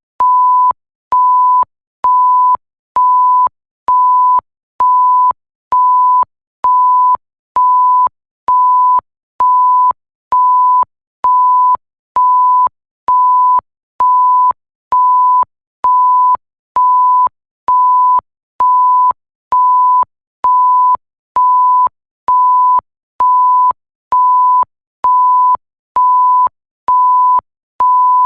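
Electronic bleep tone, a pure pitch near 1 kHz, repeating about once a second: each beep lasts most of a second with a short gap between, and a faint click where each one starts and stops.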